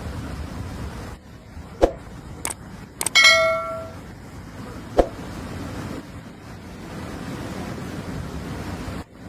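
Steady low rushing noise, broken by a few sharp knocks and a ringing metallic clang about three seconds in that dies away within a second.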